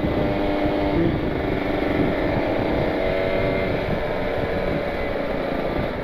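Kawasaki Ninja 150 RR two-stroke single-cylinder engine running under throttle while riding, at a fairly steady pitch.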